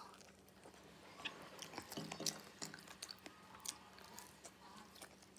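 A person chewing a mouthful of bopis and rice eaten by hand, close to the microphone, with scattered small mouth clicks and smacks.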